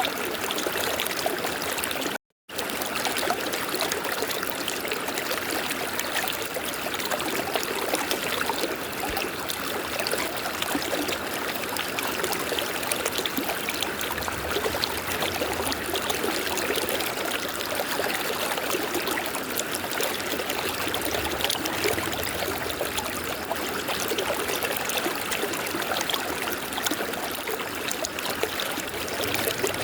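River water flowing steadily, with a brief cut to silence about two seconds in.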